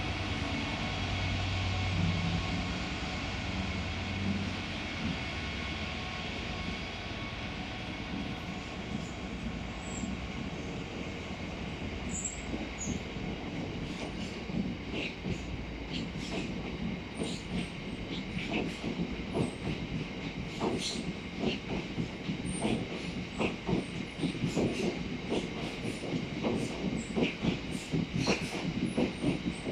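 Train running on the rails with a steady rumble and a faint whine. From about halfway, rapid clicks of wheels over rail joints build up, with short high wheel squeals.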